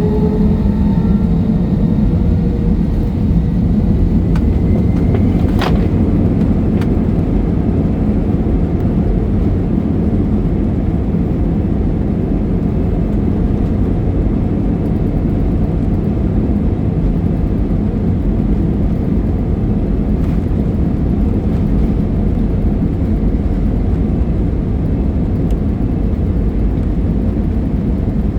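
Steady jet airliner cabin noise, the engines and rushing air heard from a window seat, with a rising whine that fades out in the first few seconds and a single click about six seconds in.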